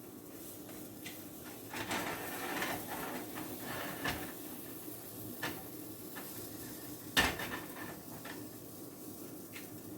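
A spatula knocking and scraping against a frying pan while pancakes are turned, in a handful of separate clinks, the sharpest about seven seconds in.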